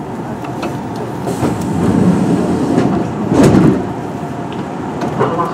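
Running noise of a Kintetsu 1420 series electric train, the Mitsubishi GTO-VVVF inverter car, heard from on board as it runs in toward a station: a steady rumble of wheels on track, with a louder swell about three and a half seconds in.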